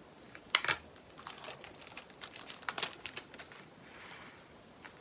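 Small plastic bag of resin diamond-painting drills being handled: a sharp click about half a second in, then a spell of light, irregular crinkling and clicking.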